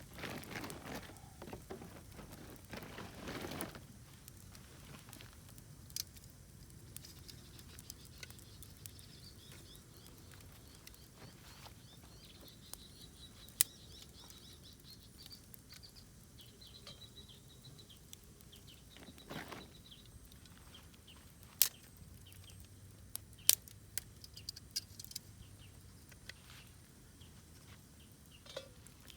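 Campfire burning, with scattered sharp crackles and pops from the wood, several louder ones in the second half. Two short rushing swells of noise come in the first few seconds.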